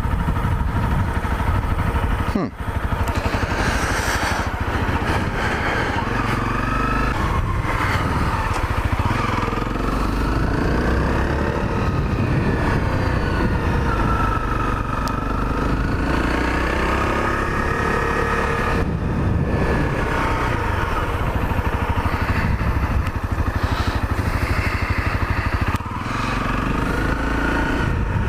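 Honda CRF250L's single-cylinder engine running as the motorcycle is ridden, its pitch rising and falling with the throttle, with brief dips near the start and near the end.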